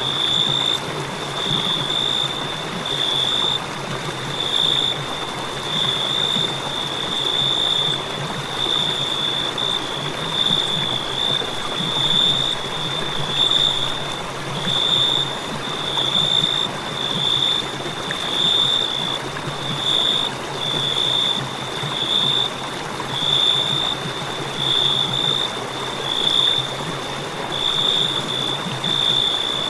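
Crickets chirping: a continuous high-pitched trill broken into short pulses, swelling and fading about every second and a half, over a soft steady hiss.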